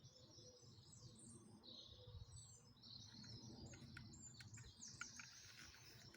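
Faint outdoor birdsong: several small birds chirping and trilling, with a few sharp ticks in the second half, over a low background rumble.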